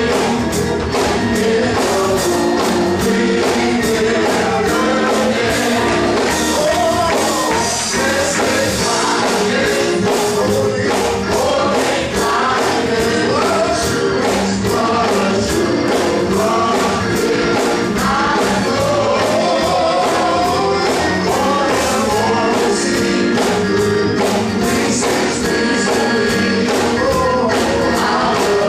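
Gospel choir singing with band accompaniment over a steady beat.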